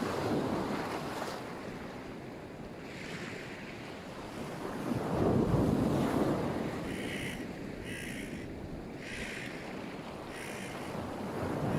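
Black Sea surf: waves breaking and washing up the shore in slow swells, the loudest about five seconds in. A bird calls in short notes several times during the second half.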